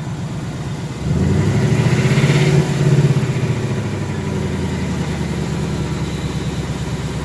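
2018 Ford Mustang GT's 5.0 L Coyote V8 idling, then brought up in revs about a second in and held for a couple of seconds before easing back toward idle. No barbecue tick is heard: the valvetrain tapping stays gone on the new oil.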